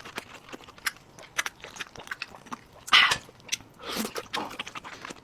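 Close-miked eating: chewing with many small wet mouth clicks, and two louder noisy bites about three and four seconds in.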